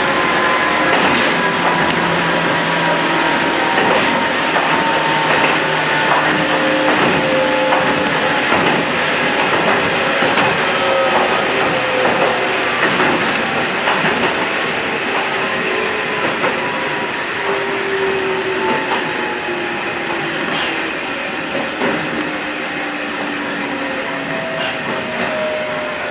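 Toyama Chiho Railway 14760-series electric train running along the line, heard from the front of the train. A steady rumble of wheels on rail carries faint motor tones that slide slowly down in pitch, and a few sharp clicks come near the end.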